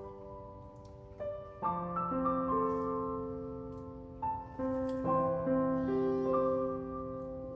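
Background piano music: slow, held notes and chords, each fading away before the next ones are struck.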